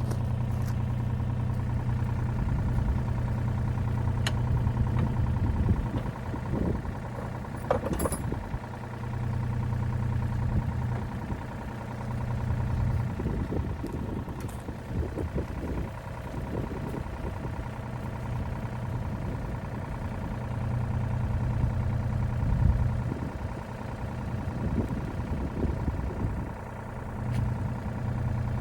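Heavy equipment engine running, its level rising and falling as the machine works, with occasional clanks and rattles.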